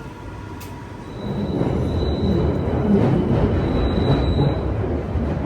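Central line 1992 Tube Stock train heard from inside the carriage as it pulls away: about a second in, the running rumble of the train rises sharply, with a thin high whine over it.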